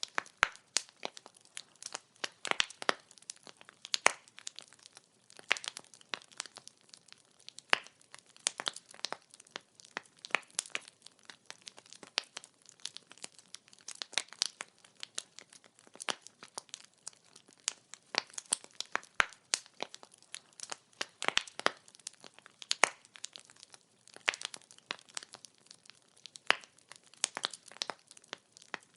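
Wood fire burning, its logs crackling and popping in quick irregular snaps over a faint low hiss.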